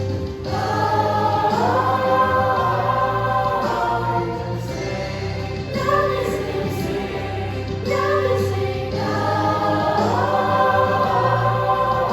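School choir singing a holiday song, with a steady bass accompaniment under sustained chords in long phrases.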